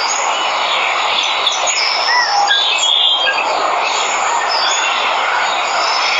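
Steady rush of falling water from a waterfall, with many birds chirping and whistling over it in short calls throughout.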